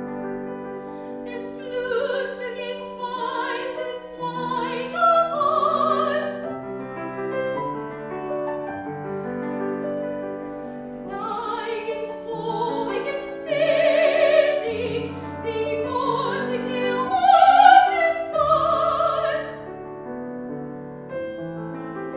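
A classically trained voice singing with vibrato, accompanied by piano. There are two long sung phrases with a short piano-only stretch between them, and the piano carries on alone near the end.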